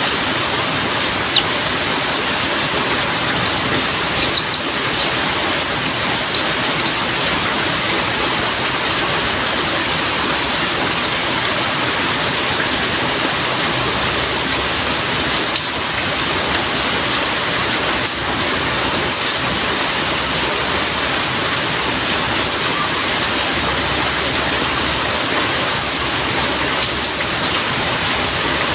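Heavy rain falling steadily, an even hiss of countless drops. A few brief, sharp high chirps stand out around four seconds in.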